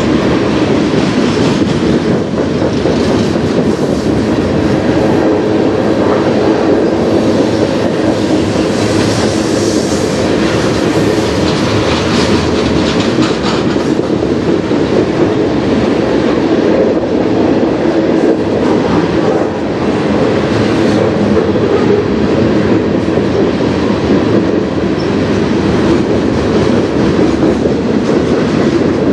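Freight cars rolling past on steel rails: a steady, loud rumble of wheels on track, with many short clicks of the wheels, thickest in the middle of the stretch.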